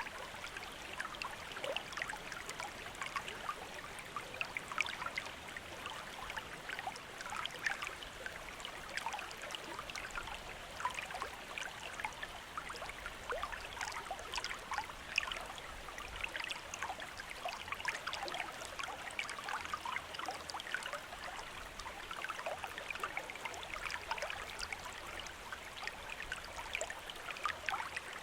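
A small river or stream running over stones: steady babbling and trickling, full of quick little splashes.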